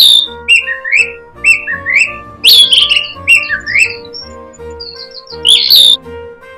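A songbird singing short repeated phrases of gliding whistled notes, loudest at the start, about halfway and near the end, over instrumental background music with a steady beat.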